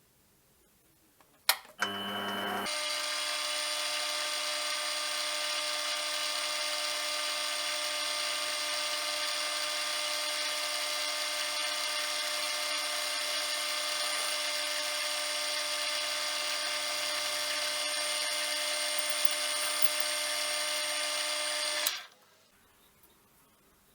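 Electric lathe switched on with a click, spinning up and then running at a steady whine for about twenty seconds before it is switched off and stops suddenly.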